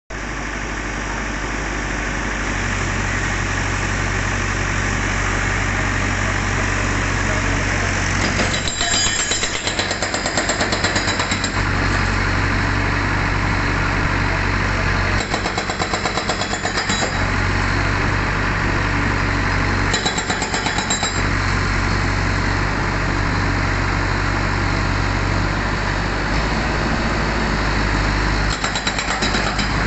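Diesel engine of a Case backhoe loader running steadily, with its hydraulic breaker hammering in four rapid bursts of one to three seconds each.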